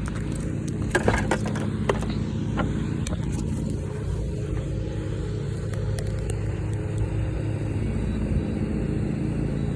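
Kids' electric ride-on toy car's motors running steadily as it drives on grass, with a few scattered clicks and knocks.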